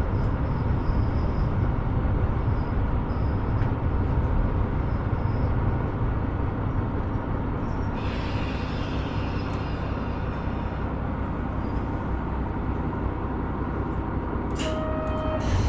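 KiHa 125 diesel railcar running along the line, a steady low rumble of engine and wheels on rail. About halfway through, a higher hiss joins the rumble, and a short pitched tone sounds near the end.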